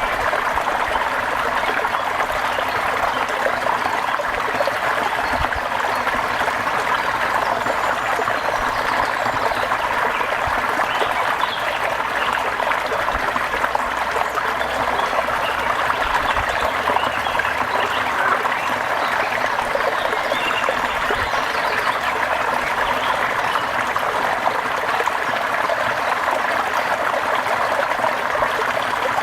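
Steady rain falling, a dense, even patter of drops that never lets up.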